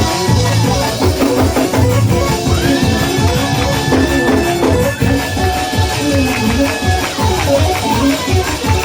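Live church praise music: a band with drums and guitar playing a steady beat, with long held notes over it.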